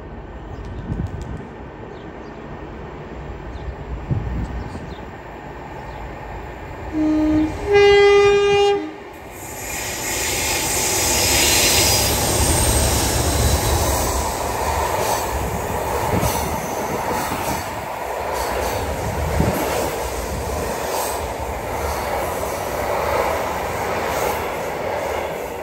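Two Class 37 diesel locomotives hauling a loaded log train approach and sound a two-tone horn about seven seconds in, a short low note and then a longer higher one. Their English Electric diesel engines then run loudly past, followed by the steady rumble and clatter of the log wagons' wheels on the rails.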